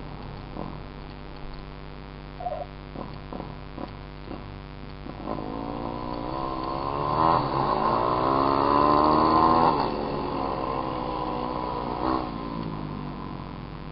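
Small dirt bike engine idling with a few sharp clicks, then revving up around six seconds in, held high for a few seconds and dropping back to idle about ten seconds in.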